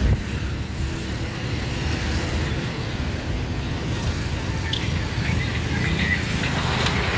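Steady low rumble of road traffic and a vehicle driving on a city street, with a brief thump at the start and a few faint short high tones about five to six seconds in.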